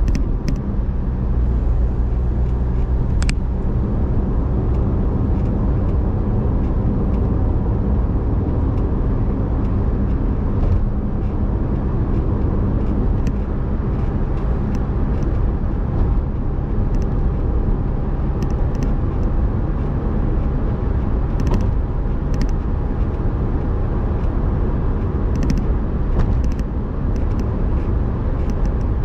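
Car being driven: a steady engine hum and road rumble, with a few faint clicks.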